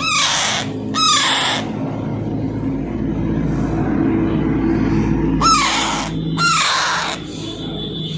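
Baby Alexandrine parakeet giving harsh, rasping squawks: two near the start and two more about five seconds in, each about half a second long.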